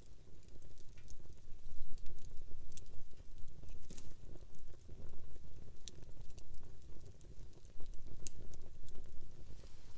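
Wood campfire burning, with a steady low rumble of flames and scattered sharp crackles and pops from the burning wood.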